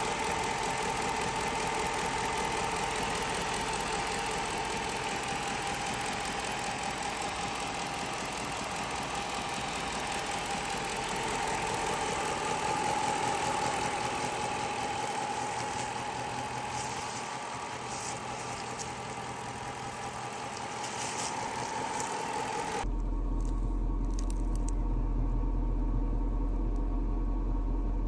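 Chrysler 300C engine running steadily with a constant whine over it. About 23 seconds in, the sound changes abruptly to a steady low hum.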